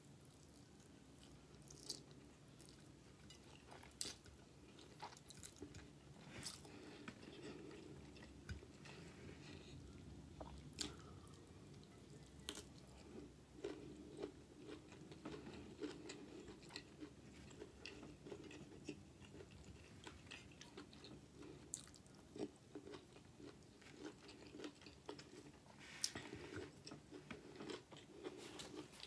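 Soft, close-up chewing of a mouthful of garlic pasta, with scattered small wet mouth clicks.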